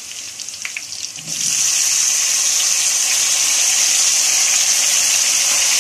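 Chopped tomatoes hitting hot oil in a kadhai: a soft crackling sizzle, then about a second in a loud, steady hiss of frying as the wet tomatoes meet the oil.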